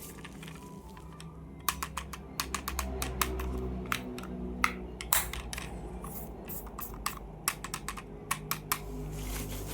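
A quick, irregular run of sharp clicks and taps as hard plastic toys or their packaging are handled, starting about two seconds in and stopping near the end.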